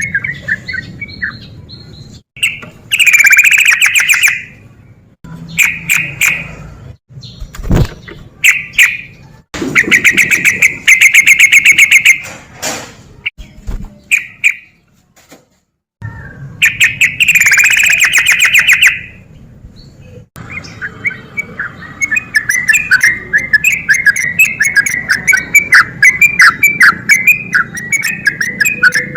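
Yellow-vented bulbul (trucukan) singing loud, bubbly phrases in separate bursts. From about two-thirds of the way in, it breaks into a fast, unbroken run of chattering notes, the 'ropel' style of song used as a lure to provoke rival birds.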